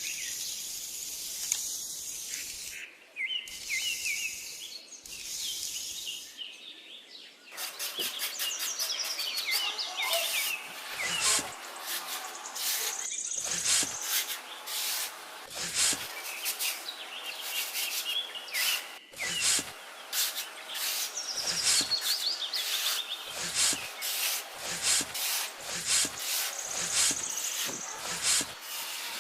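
Repeated short rubbing or scraping strokes on wood, with small birds chirping throughout.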